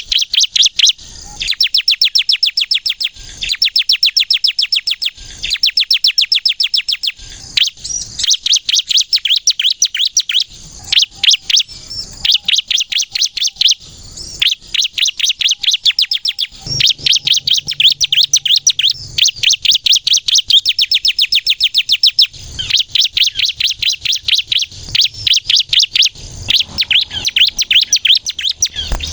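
Ciblek kristal (a prinia) singing in rapid, high, chattering trills: fast runs of sharp notes in phrases of a second or two with short breaks between them. This is the loud, busy 'nembak' song that bird-keepers play as a lure to draw in other ciblek or set them singing.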